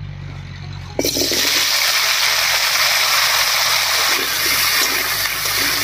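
Cubed potatoes hitting hot mustard oil in a kadai, setting off a loud, steady sizzle of frying that starts suddenly about a second in.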